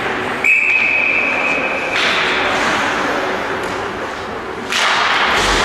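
A referee's whistle blown once, a steady high note held about a second and a half, starting about half a second in. It sounds over the echoing noise of play in an indoor arena with occasional thuds, and the background noise swells near the end.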